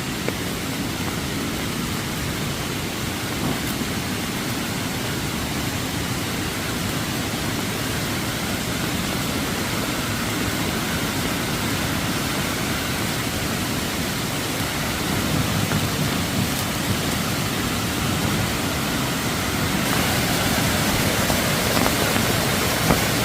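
Steady rushing of a flash-flooded stream running high after heavy rain.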